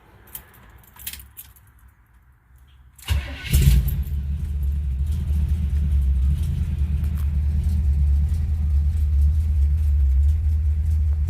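The worn-out stock 350 small-block Chevy V8, fitted with headers, starts about three seconds in after a few faint clicks. It catches with a brief rev and then idles steadily with a deep, low sound.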